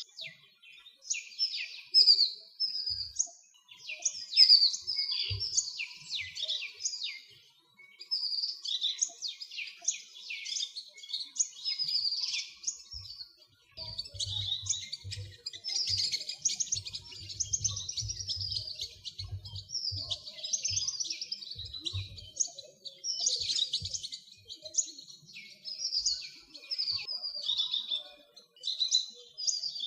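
Small songbirds chirping and twittering almost without pause, many quick high notes overlapping from several birds.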